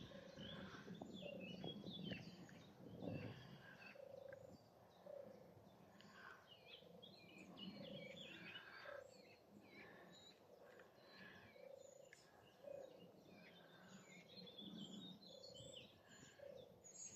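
Faint mixed birdsong, with many short chirps and trills, over a low two-note call repeating about every two and a half seconds.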